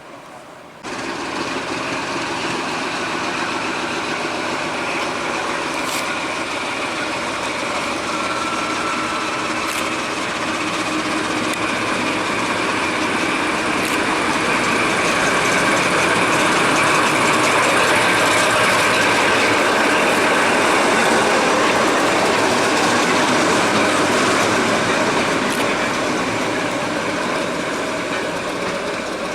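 Train running along the Severn Valley Railway line, a steady rumble of wheels on rail with a few sharp clicks spread through it. It starts abruptly just under a second in, swells toward the middle and eases slightly near the end.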